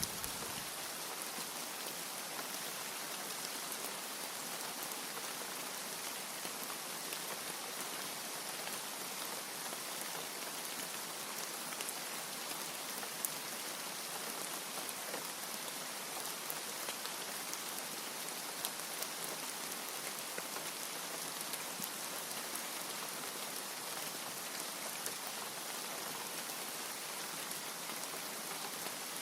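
Steady rain falling, an even hiss with scattered drop ticks. The last of a thunder rumble fades out in the first second.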